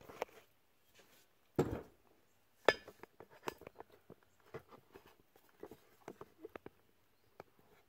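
Small metal parts (rocker arm, trunnion, washers and clips) being handled and set down on a workbench: a knock about a second and a half in, a sharp clack near three seconds, then a run of light clinks and taps.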